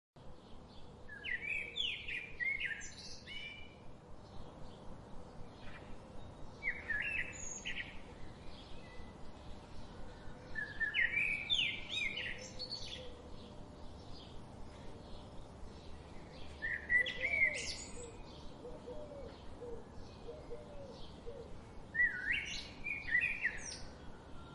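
Birds singing: a loud warbled song phrase about every five seconds, each lasting about two seconds, over fainter chirps and a steady background hiss.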